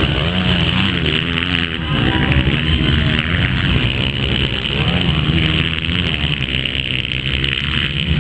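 Several motocross bike engines racing, revving up and easing off so their pitch rises and falls over and over.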